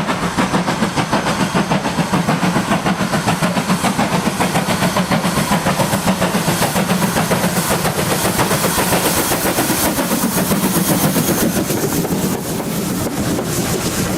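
GWR 5600 class 0-6-2T tank locomotive 6695 working under steam, its exhaust beating fast and even at about five beats a second over a steady low hum. Near the end the beats give way to a smoother, quieter running rumble.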